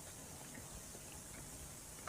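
Near silence: faint, steady room hiss with no distinct sound.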